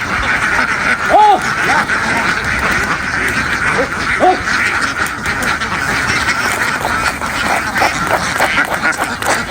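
A large flock of domestic ducks quacking together in a dense, continuous chatter, with a few single louder calls standing out.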